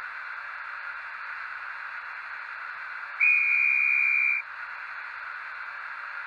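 Model locomotive sound decoder playing through a small speaker: a steady hiss, with a single high whistle blast of just over a second about three seconds in, the conductor's departure whistle.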